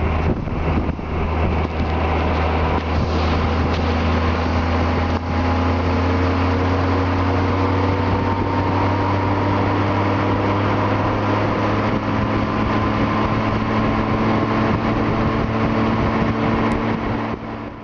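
Honda Gold Wing's flat-six engine running steadily while riding, heard from the rider's seat over a rush of wind and road noise. Its pitch rises slowly a few seconds in, then holds, and the sound fades out at the very end.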